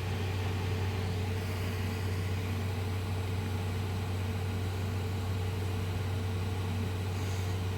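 Steady machine hum: a low drone with a fainter, higher steady tone above it, unchanging throughout.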